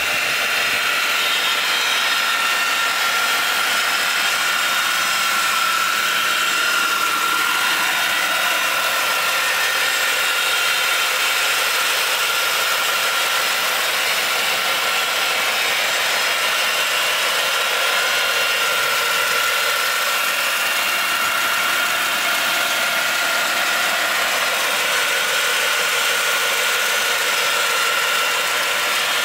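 A 1995 Cadillac Fleetwood Brougham's 5.7-litre V8 idling steadily, heard up close in the engine bay, with a steady high whine over the running.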